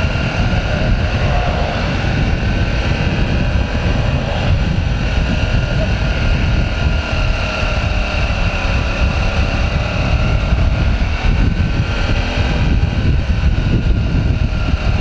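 Motorcycle riding at a steady speed: wind buffeting the helmet or bike microphone over a steady engine hum.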